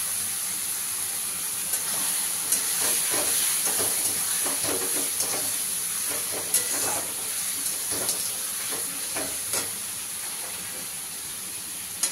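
Onion-tomato masala sizzling in oil in a kadhai as it is fried down, with a flat spatula scraping and stirring it against the pan in scattered strokes. A metal clink near the end as pan tongs grip the kadhai's rim.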